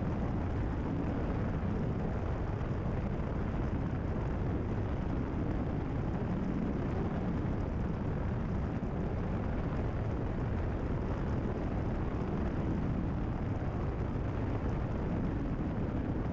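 Steady drone of a Cessna 172RG's four-cylinder Lycoming engine and propeller in cruise, with airflow noise, heard from inside the cockpit. The level stays even throughout, with no change in power.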